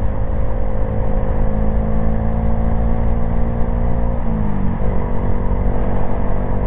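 Honda Grom's 125 cc single-cylinder engine running at steady road revs, its pitch sagging slowly, then stepping down about four seconds in and holding lower.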